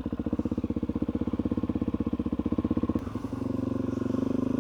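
Suzuki DR-Z400E single-cylinder four-stroke dirt bike engine running at low revs with an even, fast thumping beat; about three seconds in, the beat turns smoother and steadier.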